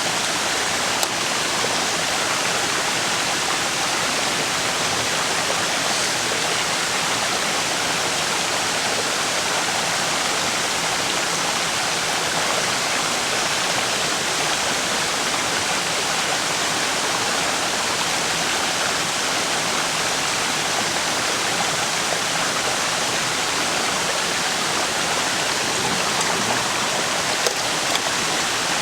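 A river or mountain stream running, a steady rush of water that does not change.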